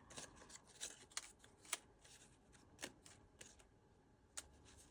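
Faint paper handling: pieces of cardstock ephemera being sorted through, giving about six soft, irregularly spaced taps and flicks.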